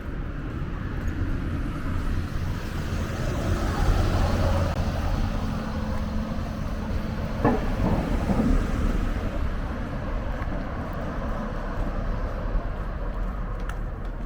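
Street traffic outdoors: a steady low rumble with a passing vehicle that swells to its loudest about four seconds in.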